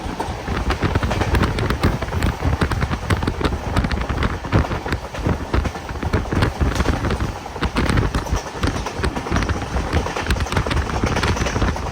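Passenger train running on the rails: a heavy low rumble with a dense, rapid clatter of wheels knocking over the track.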